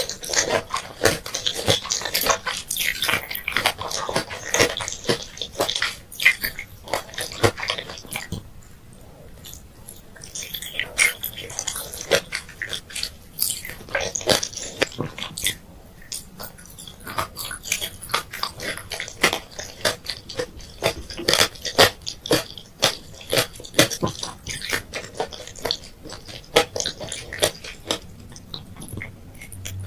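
Close-miked mouth sounds of candy being bitten and chewed: dense, irregular crunching and crackling clicks in bursts, with a couple of brief lulls.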